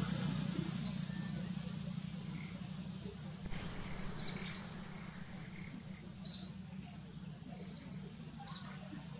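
A bird in the forest canopy chirping: six short high notes, two quick pairs and then single notes every couple of seconds, over a steady low hum.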